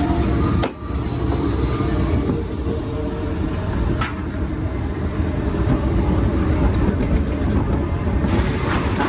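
Roller coaster train rumbling along its track, a steady low rumble with a brief break about a second in.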